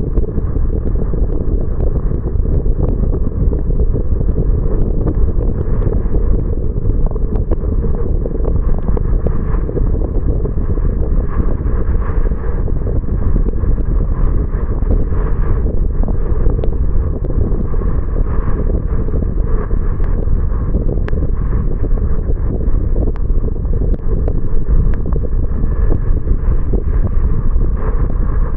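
A car driving on rain-wet roads: a steady low rumble of road and tyre noise, with scattered light ticks throughout.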